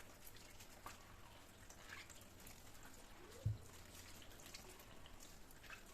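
Very quiet household handling sounds: faint scattered light clicks and taps, with one low thump about halfway through.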